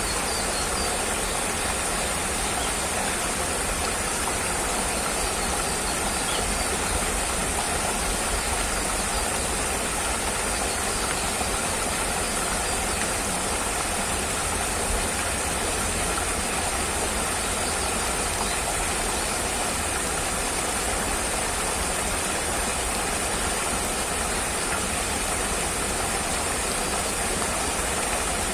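Steady, unchanging mechanical drone with a high hiss over it, running without pause.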